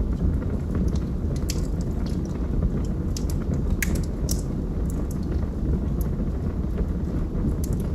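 Log fire crackling: irregular sharp pops and snaps over a steady low rumble of burning wood.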